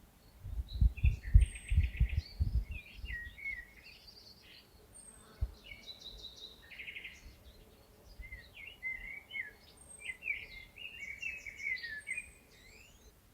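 A songbird singing a continuous, varied song of rapid trills and whistled phrases, with short, high chirps repeating every couple of seconds behind it. Low thumps sound during the first few seconds.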